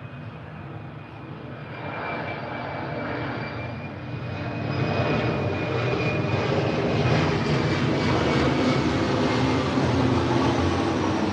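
Steady engine rumble with a high whine, swelling louder about four to five seconds in and staying loud, like a passing aircraft.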